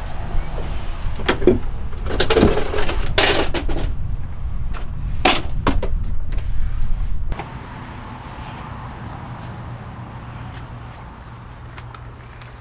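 Metal hand tools clinking and clattering as they are gathered, with a few louder rattling clatters in the first half. A low rumble underneath cuts off suddenly about seven seconds in.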